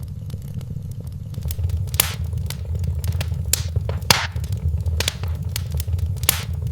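Wood fire in a fireplace crackling, with many small snaps and a handful of louder pops, the loudest about two and four seconds in, over a steady low rumble of the flames.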